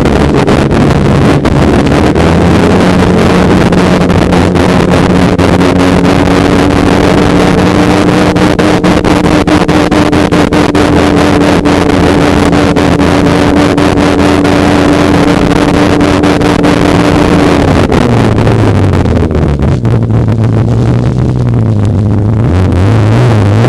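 Polaris snowmobile engine running at a steady pace with wind buffeting the microphone; about eighteen seconds in, the engine note drops lower as the sled slows.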